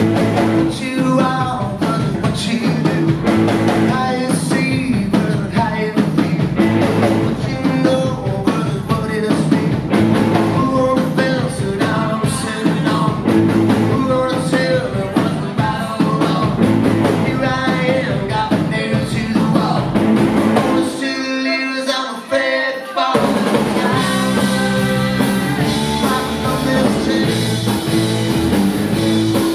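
Rock band playing live, with drum kit, bass and guitars. About 21 seconds in, the bass and drums drop out for about two seconds, then the full band comes back in.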